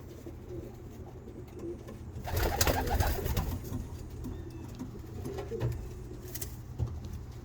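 Domestic pigeons cooing, with a louder noisy rustle lasting about a second, starting a little over two seconds in, and a brief one near the end.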